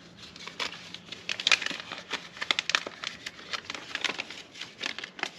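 Paper instruction sheet rustling and crinkling as it is unfolded and handled: a dense run of sharp crackles that stops abruptly at the end.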